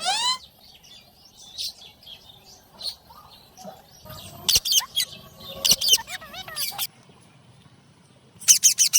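Ringneck parakeets calling: a rising call at the start, scattered short chirps, then several loud, harsh squawks in the middle and a quick run of them near the end.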